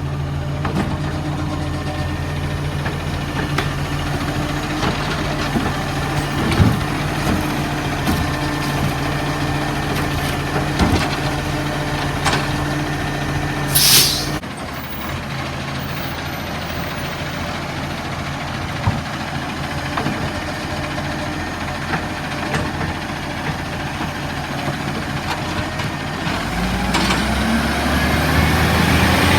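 Garbage truck's diesel engine running steadily, with scattered knocks and clatters and a short loud air hiss about halfway through. Near the end the engine pitch rises as it revs up.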